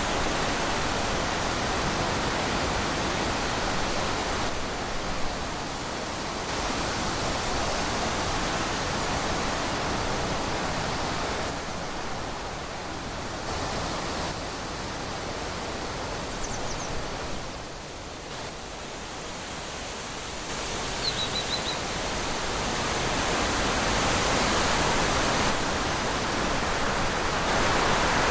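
Wind blowing through trees, gusting and easing in waves, dropping lowest past the middle and swelling again near the end. Two faint brief high chirps sound a little after the middle.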